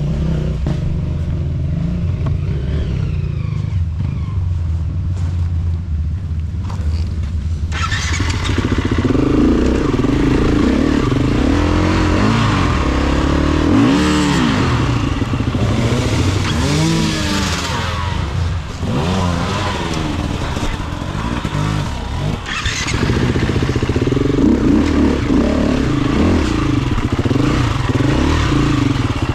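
Honda CRF250F single-cylinder four-stroke trail bike engine, running at low, even revs for the first several seconds. From about eight seconds in it is ridden, with the revs rising and falling again and again.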